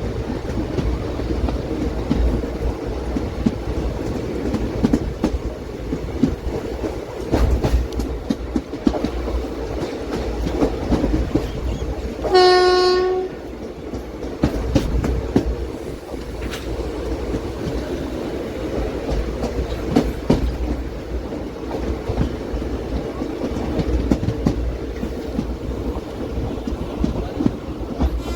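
Passenger express train running at speed, heard from a window seat inside a coach: a steady rumble with the clickety-clack of wheels over rail joints. About twelve seconds in, a locomotive horn sounds once in a single short blast of under a second.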